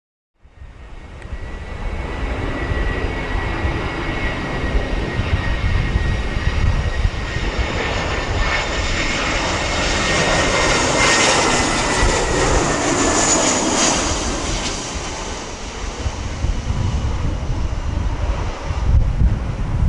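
Airbus A320 jet airliner flying past on approach: its engine noise swells to a peak about halfway through and then fades, with a high whine that drops slightly in pitch as it passes. Wind buffets the microphone.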